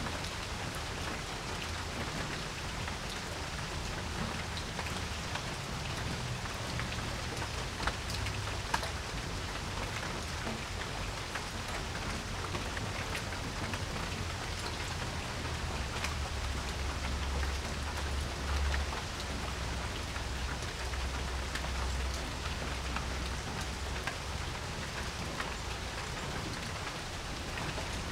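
Steady rain falling on a porch, with individual drops ticking sharply now and then. A low rumble comes in for several seconds past the middle.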